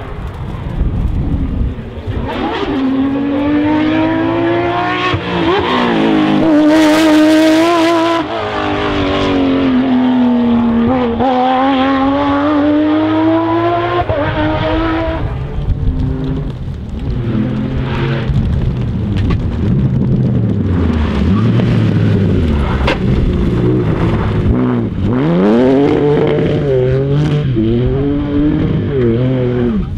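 Porsche rally car engine revving hard through the gears, its pitch climbing and dropping again and again, with a brief rushing hiss about seven seconds in. In the second half a lower engine note rises and falls as the car drives on.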